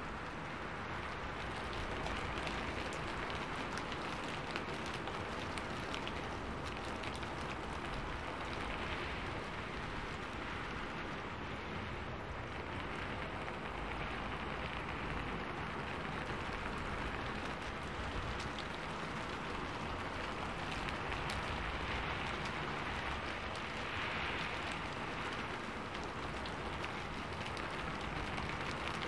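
Rain falling steadily: an even hiss dotted with small ticks of individual drops.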